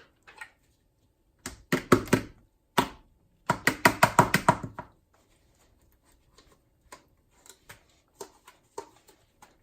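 Quick clusters of knocks and taps, chopped vegetables being tossed into a blender jug. The loudest is a fast run of about eight knocks in the middle, followed by fainter scattered ticks.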